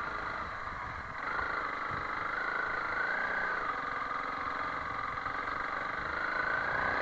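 Honda CRF300L Rally's single-cylinder engine running while riding, its pitch rising and falling gently with the throttle.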